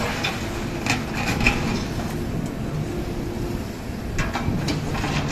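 A diesel engine of road-work machinery running steadily, with a few sharp metallic clinks about a second in and again near the end.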